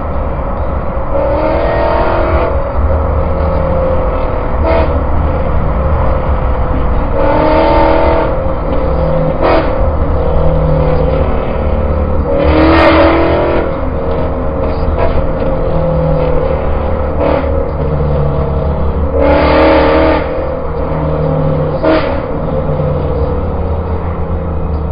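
Ford Mustang ahead revving its engine in several loud bursts, the strongest about halfway and three quarters through, its exhaust sounding as if it had none. Underneath runs a steady low rumble of wind and road noise in an open-top vehicle at road speed.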